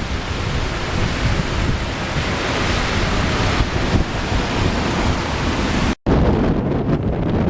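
Wind buffeting the microphone on the deck of a sailing ship, over a steady rush of water. The sound breaks off abruptly about six seconds in and resumes as a lower, gustier wind rumble.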